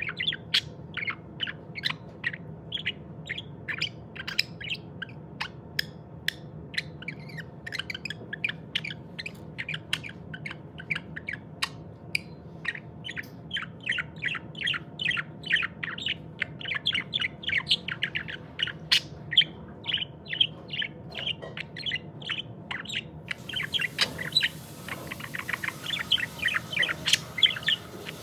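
Pet budgerigar chirping and chattering: a continuous run of short, quick chirps, several a second, over a low steady hum.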